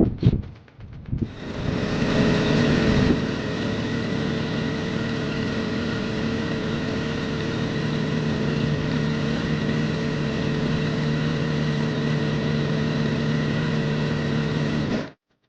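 A motor running steadily with a constant pitch, slightly louder for the first couple of seconds, then cut off suddenly near the end.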